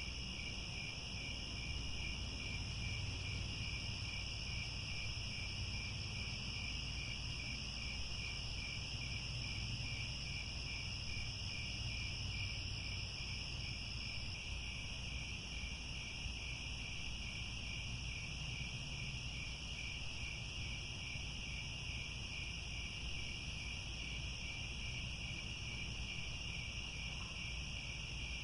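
Chorus of crickets trilling continuously, a finely pulsed high trill with a second, higher-pitched trill above it, over a low steady rumble.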